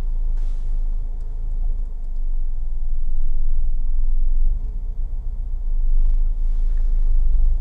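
Steady low rumble of a car driving slowly, engine and road noise heard from inside the cabin, growing a little louder from about the middle.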